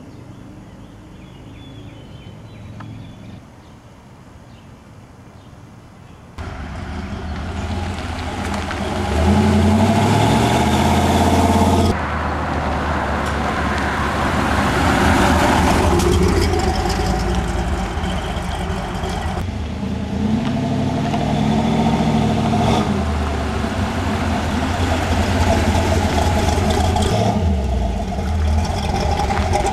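Engine of a custom 1950 Studebaker Champion hot rod running as the car drives. It is quieter for the first six seconds, then much louder, with the revs rising and falling twice; the sound changes abruptly at several edits.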